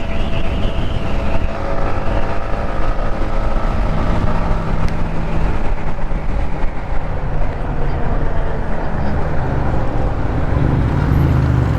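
Motorcycle under way: engine running steadily, with rushing wind noise on the microphone.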